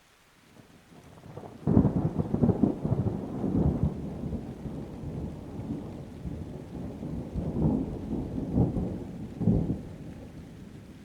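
Thunder over light rain: a sudden loud crack just under two seconds in, then rolling rumbles with several further swells that die away near the end.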